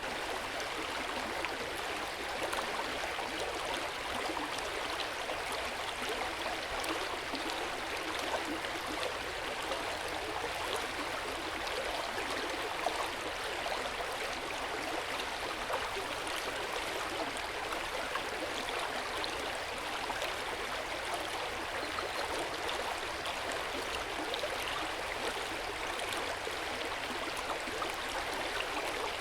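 Hot-spring water flowing and splashing steadily in an open-air onsen bath, a gentle, even water sound with fine trickling detail.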